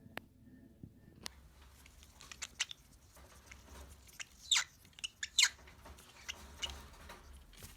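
Small pet gnawing and scratching at a piece of wood: a run of irregular scratchy, crunching noises, loudest around the middle, after a couple of sharp clicks near the start.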